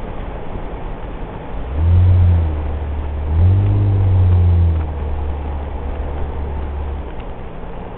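Nissan Elgrand minivan heard from inside the cabin while driving: a steady low engine and road drone, with the engine swelling twice as it pulls, briefly about two seconds in and again for over a second a little later, its pitch rising and falling.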